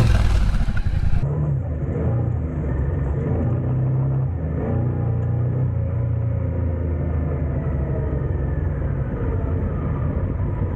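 Yamaha Ténéré 700 parallel-twin motorcycle engine running, its pitch shifting up and down as the throttle changes. A loud rush of wind noise cuts off about a second in, leaving a muffled engine sound.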